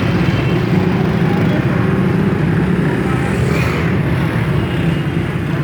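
Motorcycle engine running steadily at idle, a loud even fluttering hum throughout.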